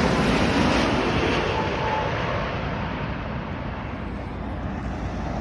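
Jet engine noise of a Boeing 787 airliner passing by, a broad steady rush that slowly fades as the aircraft moves away.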